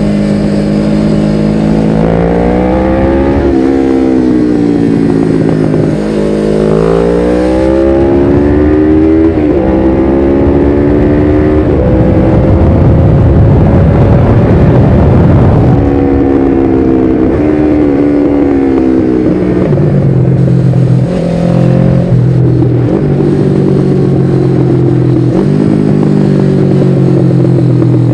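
A 1993 Suzuki GS500E's air-cooled parallel-twin engine running loud through a Takkoni slip-on exhaust with its dB-killer fitted, heard from the bike while riding. The engine note repeatedly rises under throttle and drops back, with several sudden steps in pitch from gear changes in the second half. Near the middle a stretch of rushing wind noise blends with the engine.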